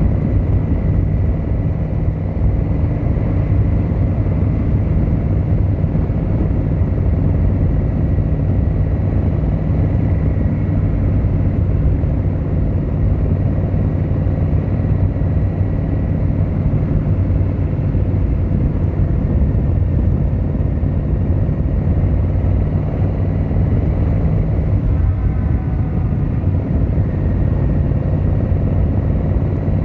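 Yamaha XVZ1300 Royal Star's V4 engine and exhaust running at a steady pace while riding, with no marked revving.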